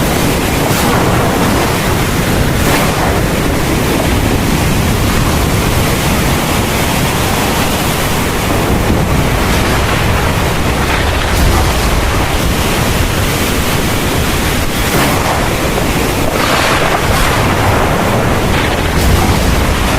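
Heavy thunderstorm rain pouring steadily, a dense even hiss, with low thunder rumbling beneath it around the middle and again near the end.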